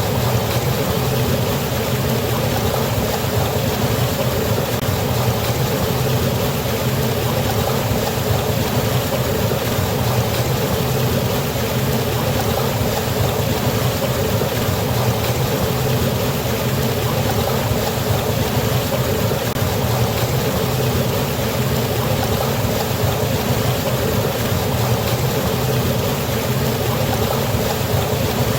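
Waterfall: falling water rushing in a steady, unchanging roar-free wash of noise.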